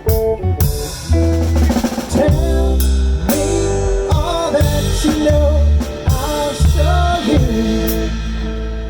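A band instrumental passage with drum kit, bass and guitar, the lead line bending in pitch.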